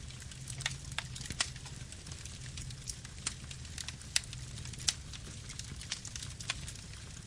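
Campfire burning: a steady low rumble of flame with sharp wood crackles and pops scattered irregularly through it, two of them louder in the second half.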